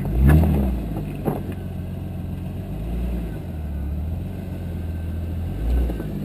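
Jeep Cherokee XJ's engine rising and falling in a short rev, then running steadily at low revs while the Jeep crawls over boulders, with one sharp knock about a second in.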